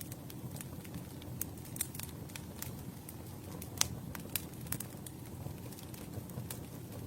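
Campfire burning: wood crackling and popping at irregular intervals over a low, steady rumble of flame, with one sharper pop about two-thirds of the way through.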